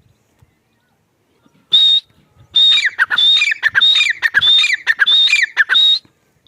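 Irani teetar (partridge) calling: a single loud whistled note, then after a short pause a quick run of six more, about one and a half a second. Each note is a high held whistle that slurs down in pitch, and the calling stops a little before the end.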